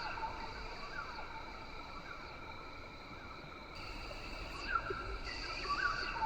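Rainforest ambience: a steady chorus of insects buzzing at several pitches at once, with short upward-sweeping calls from other animals scattered through it, a few of them near the start and more toward the end.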